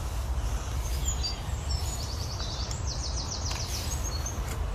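A small songbird singing: rapid high trills of quickly repeated notes, one about two seconds in and another just after, over a steady low rumble.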